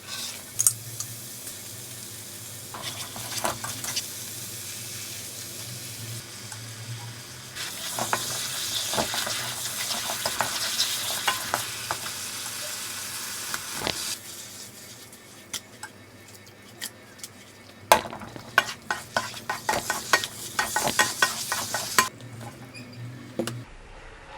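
Food sizzling in a hot pan while a utensil stirs and scrapes against it. The sizzle is loudest midway, and near the end comes a quick run of clicks and scrapes.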